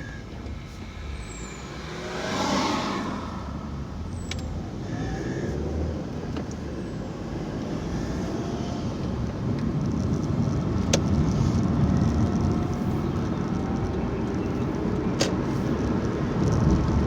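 Car road and engine noise heard from inside the cabin while driving, a steady low rumble that swells briefly about two seconds in and grows gradually louder towards the end, with a few faint ticks.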